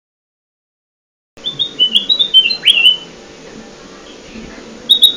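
Kutilang emas bulbul song from a lure-call recording. After about a second and a half of dead silence, a quick run of short stepped whistled notes ends in a sharp falling note that levels off. The same phrase starts again near the end.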